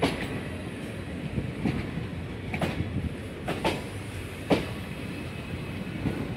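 Passenger train rolling past on the track: a steady rumble with irregular sharp clacks as the wheels cross rail joints, the loudest a little past the middle.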